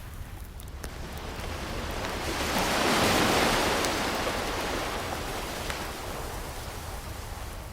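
An ocean wave breaking and washing in: a rush of surf that swells to a peak about three seconds in and slowly recedes, over a steady low rumble of the sea, with a few faint fireplace crackles.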